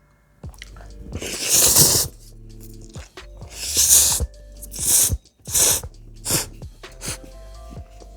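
Loud eating sounds from a mouthful of spicy instant ramyeon: a run of about six slurps, the longest about a second, with chewing between them. Quiet background music plays underneath.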